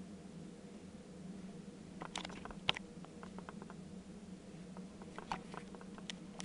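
Bosch Exxcel dishwasher running early in an economy express wash: a steady low hum, with clusters of light clicks and patter about two to three seconds in and again about five to six seconds in.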